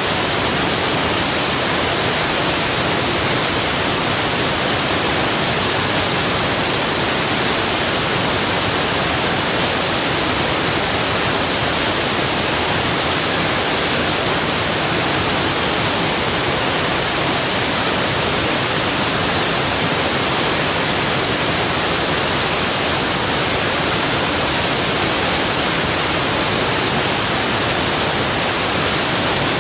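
Rushing water, a loud, steady, even hiss that never changes.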